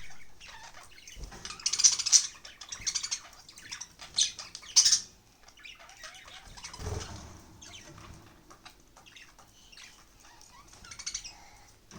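Pet budgerigars chirping and squawking in short, irregular bursts, with wing flutters among them and a soft low thump about seven seconds in.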